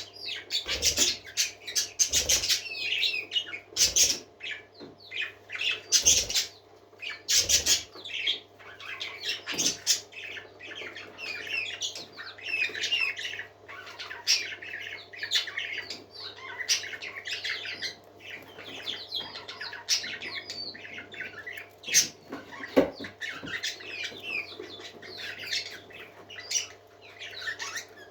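Several parakeets chattering and warbling without a break, with many short, sharp squawks mixed in. A faint steady hum runs underneath.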